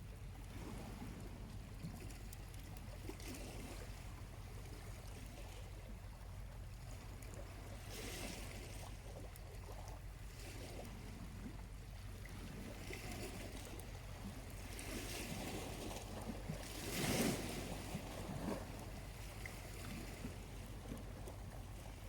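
Small waves lapping and washing on the shore, in soft surges with the loudest wash about 17 seconds in, over a steady low rumble.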